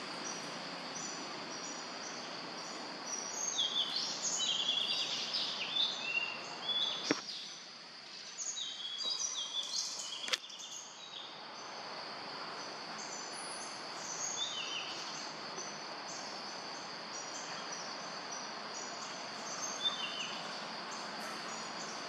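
Outdoor tree-canopy ambience: birds chirping over a steady high insect drone and a bed of noise, with a busy run of chirping calls from about three to seven seconds in and shorter calls later. Two sharp clicks stand out, a little after seven seconds and about ten seconds in.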